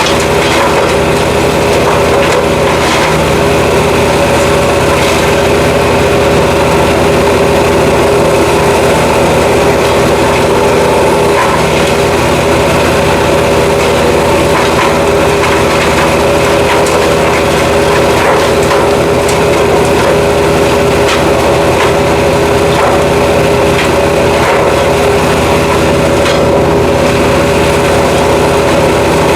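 Jansen GTS-1500 wood chipper with its 420cc engine running steadily while chipping black walnut wood, with scattered cracks and clatter of wood going through the chipper.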